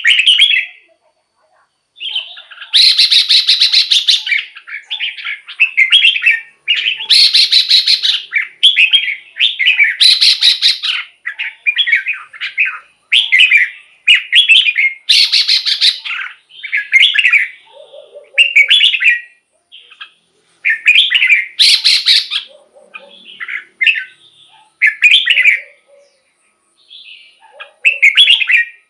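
Red-whiskered bulbul singing a fast run of short, bright, warbling phrases with brief pauses between them. Some phrases are harsher and buzzier.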